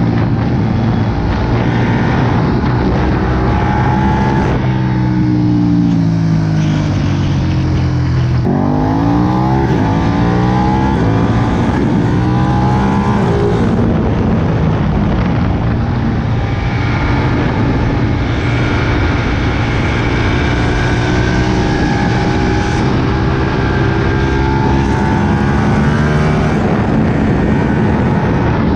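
Ducati Panigale 959's V-twin engine under way, heard from on board. Its pitch falls as the bike slows about five seconds in, climbs as it accelerates from about eight seconds in, then holds fairly steady.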